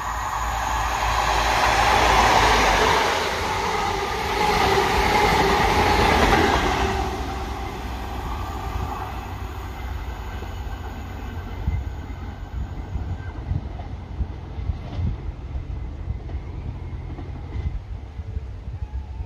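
Passenger train running through the station at speed: a loud rush of wheels on rail and engine that peaks twice in the first seven seconds, then fades away as the train recedes.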